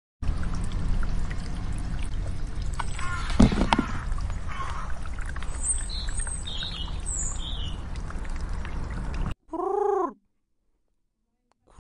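Small birds chirping a few times over a steady low wind-like rumble, with a louder sound about a third of the way in. Near the end, after a sudden cut, a cat meows once, a short call that rises and falls in pitch, and a second call starts at the very end.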